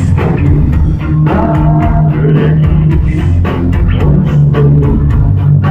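Rock music: electric guitar, bass guitar and drum kit playing a steady beat.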